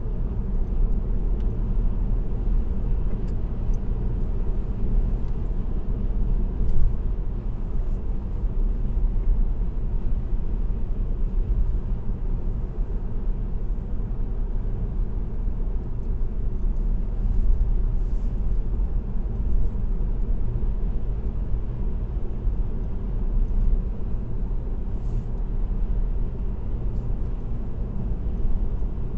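Steady low rumble of a car cruising at constant speed on an expressway: tyre and road noise with the engine underneath, heard from inside the car through a dashcam.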